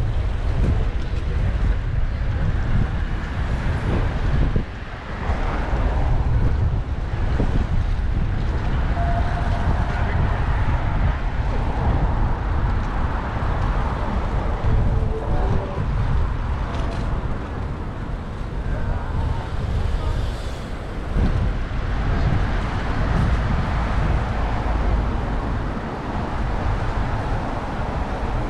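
Wind buffeting a bicycle-mounted action camera's microphone while riding, with road traffic running underneath.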